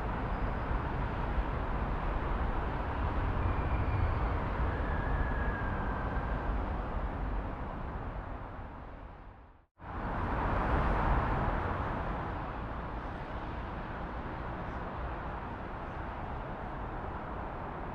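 Recorded city traffic ambience: a steady rumble and hiss of passing vehicles. It fades out to silence a little past halfway, then swells straight back in.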